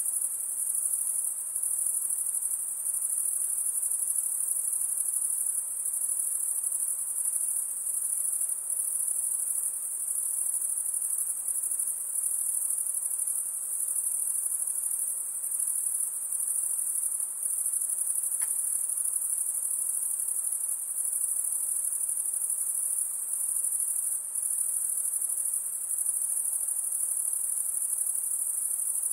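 Dense chorus of high-pitched insects trilling steadily without a break, with one faint click about eighteen seconds in.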